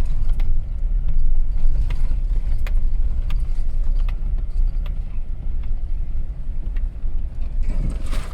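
Car driving on a rough unpaved track, heard from inside: a heavy, uneven low rumble with scattered knocks and clicks.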